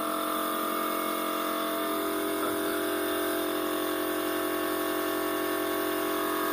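Steady machine hum with several level tones, cutting off suddenly at the end.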